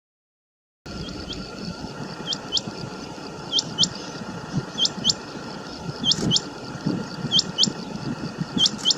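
Common quail calling: sharp, high notes in quick pairs, each pair repeated about every second and a bit. The calls start abruptly about a second in, over a steady low background hiss.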